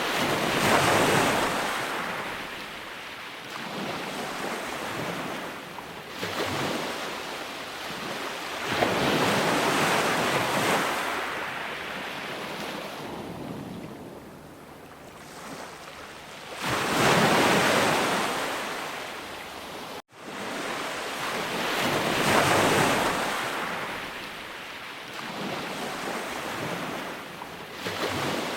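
Ocean waves breaking and washing up, surging and receding in several swells every few seconds. About two-thirds of the way through, the sound drops out for an instant.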